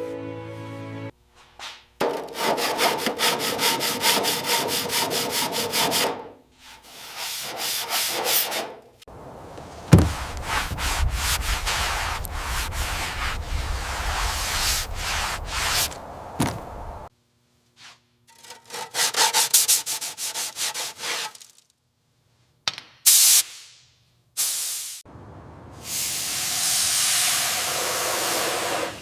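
Abrasive sanding and scraping of metal in several separate bursts of rapid, even strokes. One longer stretch in the middle has a deep rumble underneath. A steady hiss takes over for the last few seconds.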